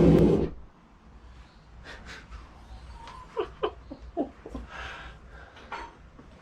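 Gas forge burner running loud at 1 bar, a steady rush of gas and flame that cuts off suddenly about half a second in. After it, quiet with a person's breathing and a few short vocal sounds.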